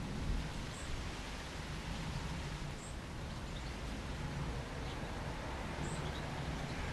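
Steady outdoor background hiss with a few faint, short, high-pitched bird chirps about two to three seconds apart.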